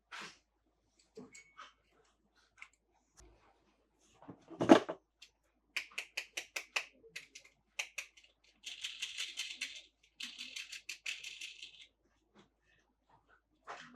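Plastic toys and packaging being handled: a thump, then a quick run of sharp clicks, then two stretches of fast, rattling ratchet-like clicking.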